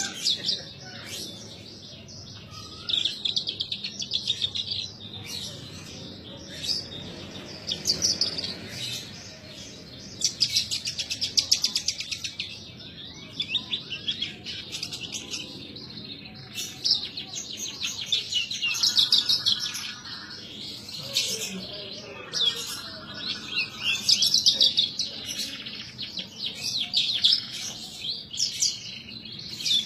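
Branjangan (Horsfield's bush lark) singing in full song: a long, varied run of high, rapid trills and chirps in phrases of a few seconds with short breaks between them.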